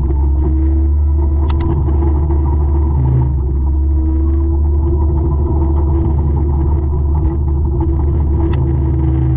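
A 200-horsepower forestry mulcher running steadily under load with a deep, even rumble. Two sharp clicks stand out, about a second and a half in and near the end.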